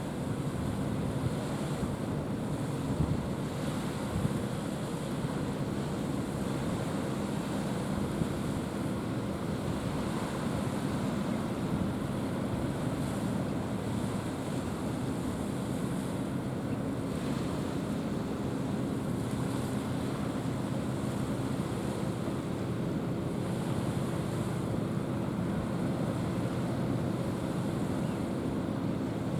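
Steady wind on the microphone and sea wash, with a low, even engine hum that is plausibly a passing container ship's diesel engine.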